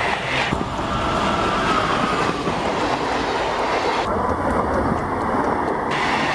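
Railway train running on the track: steady rolling noise with wheel clatter, and a faint wheel squeal in the first couple of seconds.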